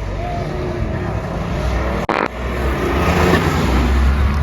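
A car engine under acceleration as it drives off, a heavy low rumble that grows louder through the second half, broken by a short sharp dropout about two seconds in.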